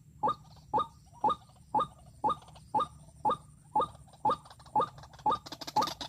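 White-breasted waterhen calling: short, sharp notes repeated at a steady pace of about two a second.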